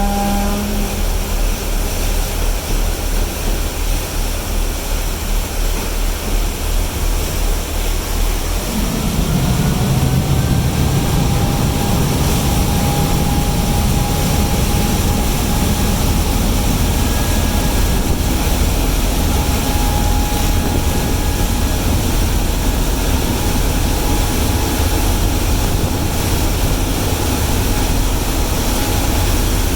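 A horn blast ending about a second in, then, about nine seconds in, a heavy engine starts running loudly, with a whine that rises and then holds steady over a low rumble.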